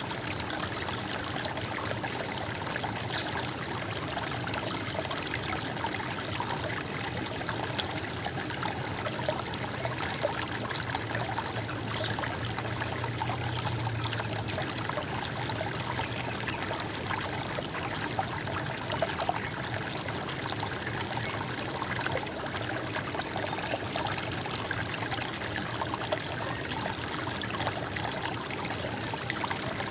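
Running water in a stream, trickling and gurgling steadily.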